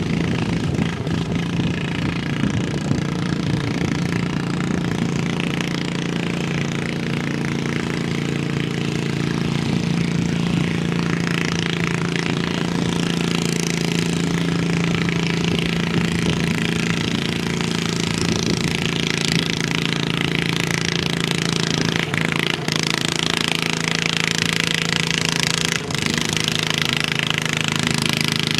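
Pulling garden tractor's engine running loud and steady, its pitch holding level throughout.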